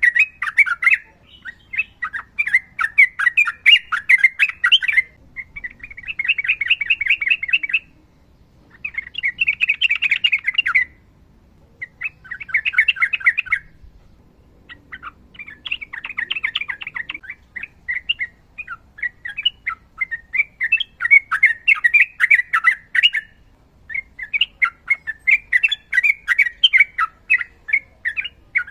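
Yellow-vented bulbul (trucukan) singing its long, rapid chattering song, phrase after phrase of quick notes, each phrase lasting one to three seconds with brief pauses between.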